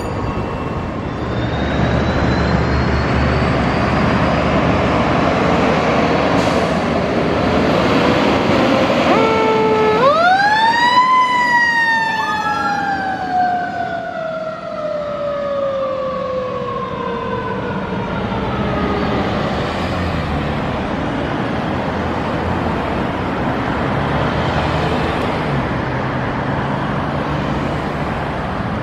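Seagrave fire engine responding, its engine running under a steady rumble. About ten seconds in, a mechanical siren winds up quickly and then coasts down slowly over about eight seconds.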